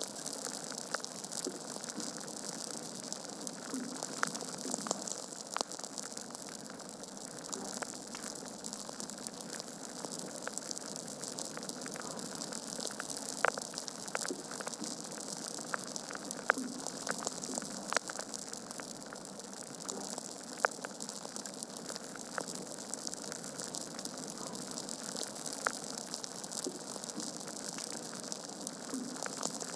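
Wood fire in a fireplace burning with a steady hiss and scattered sharp crackles and pops from the logs, a few louder pops near the middle.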